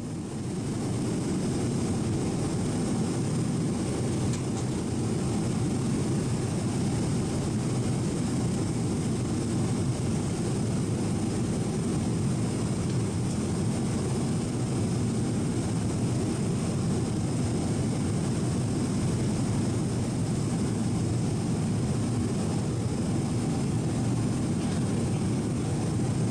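Steady cabin noise inside a Boeing 777-300ER in flight: an even, low rush of airflow and its GE90 jet engines, with a faint high whine above it.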